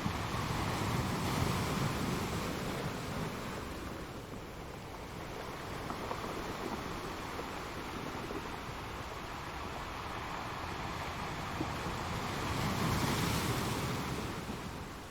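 Ocean surf: waves breaking and washing up the shore in a steady hiss. The surf swells about a second in and again near the end.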